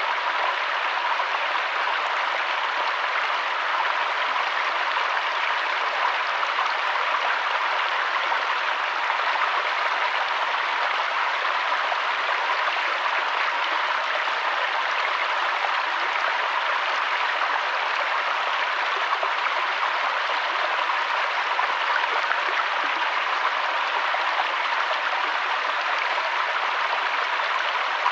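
River water flowing steadily over stones, a continuous even rush with a bright splashing hiss and little low rumble.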